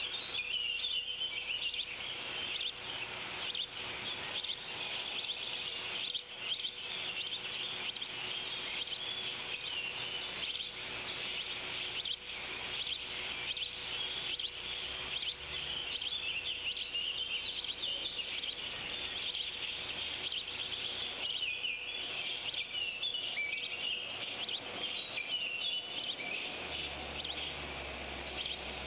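Birds chirping steadily around the nest: a dense, unbroken run of high chirps and twitters.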